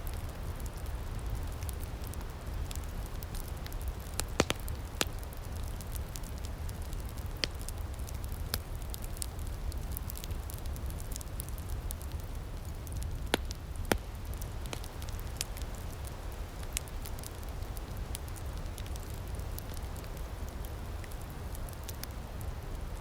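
Wood fire in an outdoor firepit crackling steadily, with frequent small snaps and a few louder pops, over a low steady rumble.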